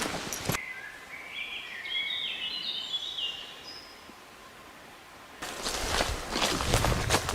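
Footsteps on crunchy ground stop, and a songbird sings a run of short clear notes that step upward in pitch over about three seconds. About five seconds in, the footsteps start again.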